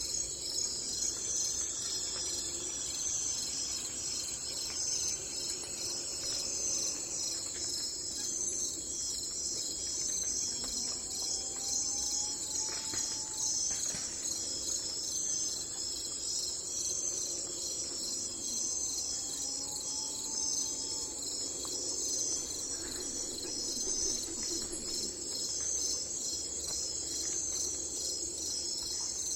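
A steady, high-pitched insect chorus of crickets, pulsing without a break. Over it a bird gives two faint, slow whistled calls, about 11 and 19 seconds in.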